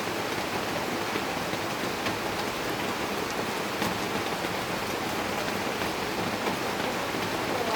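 Heavy rain falling steadily, with individual drops striking a surface here and there.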